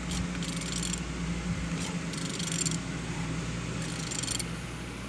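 Honda K24A3 engine being turned over by hand, with rapid ratcheting clicks in four or five short bursts over a steady low hum. The engine turns freely.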